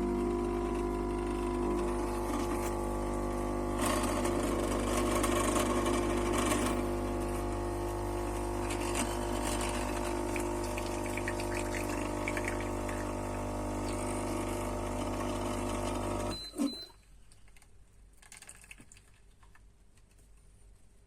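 KOTLIE AC-513HF capsule coffee machine's pump running with a steady hum as it dispenses coffee, cutting off abruptly about 16 seconds in with a short click.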